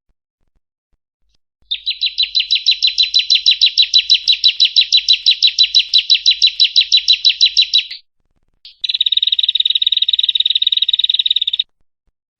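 Female ciblek (bar-winged prinia) singing a long, rapid trill of evenly repeated high notes, about six or seven a second, for about six seconds. After a short pause and a single note, a second, faster and denser trill follows.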